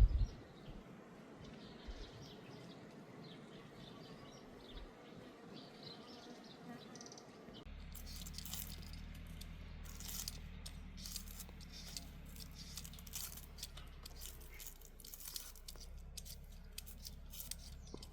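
Faint bird chirps over open-air ambience for the first seven seconds or so. Then, with a low steady hum underneath, comes a quick run of crisp clicks and rustles.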